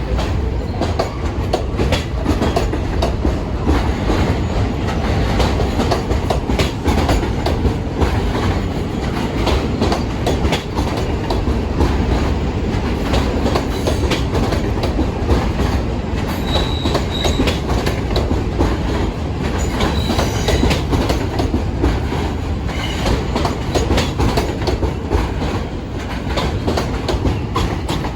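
New York City subway train running through an elevated station, steady rumble with wheels clattering over rail joints. A few brief, faint wheel squeals come in around the middle.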